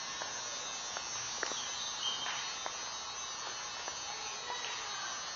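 Steady buzzing background noise with a few faint clicks.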